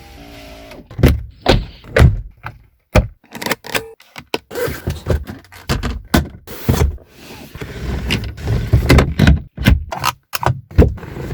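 A quick series of solid thunks and clunks from a BMW E32 7 Series' doors and latches, one after another, some followed by brief rattling noise, with abrupt breaks between them.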